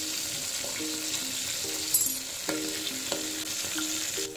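Onion, garlic and green chillies sizzling in hot oil in a metal pot while a metal spoon stirs them, clicking against the pot every half second to second; this is the baghar (tempering) frying for daal.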